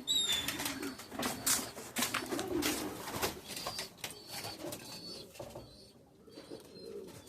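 Domestic pigeons cooing in a loft, with scattered sharp clicks and rustling from birds and their surroundings.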